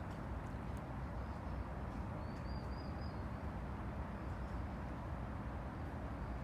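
Steady low rush of river waves, with a small bird giving short phrases of high chirping notes two or three times.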